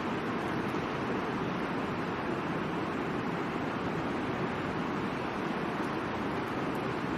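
Steady rushing of the Middle Fork of the Boise River, a constant even roar of flowing water.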